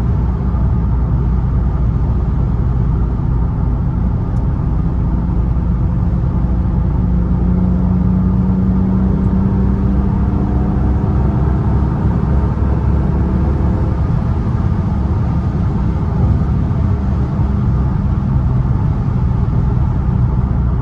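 E36 BMW M3's S50 straight-six engine and road noise heard from inside the cabin while driving. The engine note rises gently for a few seconds near the middle, then settles back to a steady cruise.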